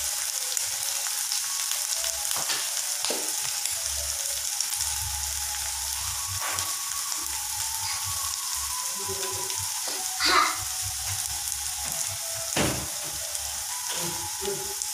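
Onion, ginger-garlic paste and ground spices sizzling steadily in hot oil in a non-stick pan, with a few scrapes of a wooden spatula; the loudest scrape comes about ten seconds in.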